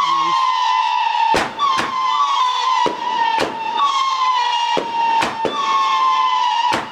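Spunky Monkey howler firework cake firing: shrill whistles, each sliding slightly down in pitch and overlapping the next, broken by sharp bangs about every second.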